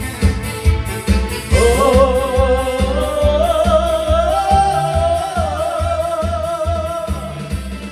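A singer holds one long note with vibrato, rising slightly in pitch, from about a second and a half in until near the end, over trot accompaniment with a steady beat.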